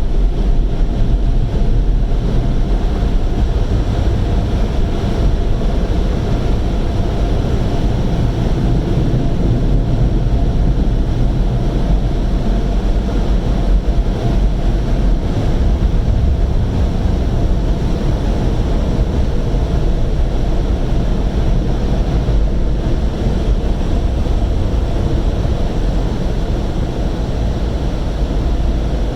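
Automatic tunnel car wash equipment running, heard from inside the car's cabin: a loud, steady rush of water and air over the car with a deep rumble underneath.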